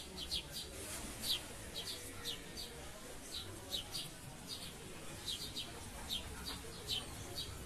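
Small birds chirping: a steady run of short, high chirps, two or three a second, over a faint low hum.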